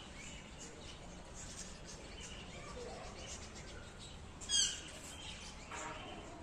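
Birds chirping and calling faintly, with one short, loud call about four and a half seconds in.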